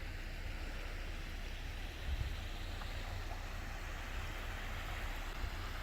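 Steady rush of falling water from a waterfall, with a low rumble underneath.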